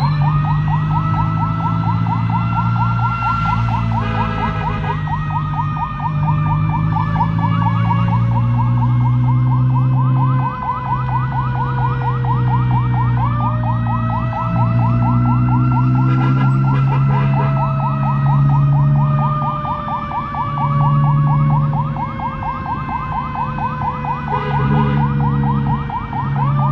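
Ambulance siren sounding continuously with a rapid pulsing tone. It jumps up sharply in pitch twice, then sinks slowly over about thirteen seconds. Low steady droning tones come and go underneath.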